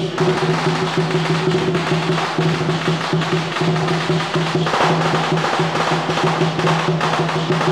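Temple procession percussion: a fast, dense drum roll with clacking woodblock-like strikes over a steady low hum.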